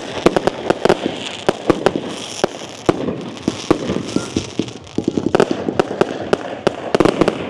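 Fireworks going off: a rapid, irregular string of sharp bangs and crackles, several a second, some overlapping.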